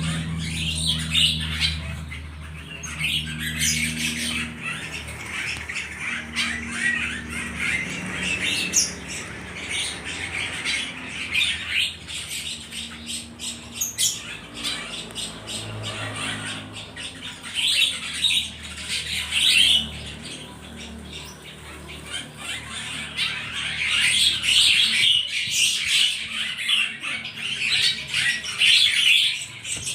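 A crowd of trapped songbirds chirping and squawking without pause, louder in the second half, over a low steady hum.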